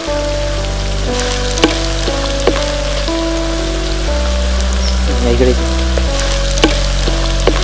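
Sliced onions, green chillies and curry leaves sizzling steadily in hot oil in a clay pot, under background music of held keyboard-like notes over a low bass that changes chord every second or two. A few sharp clicks stand out.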